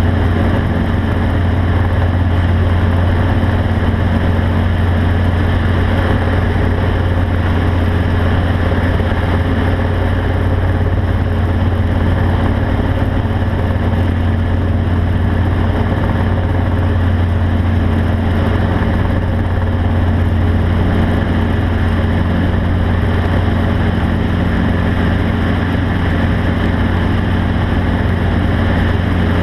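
Steady, unchanging low drone of a running engine.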